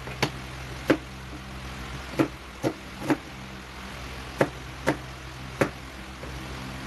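Kitchen utensils knocking during food preparation: about eight sharp, separate knocks at irregular intervals over a steady low hum.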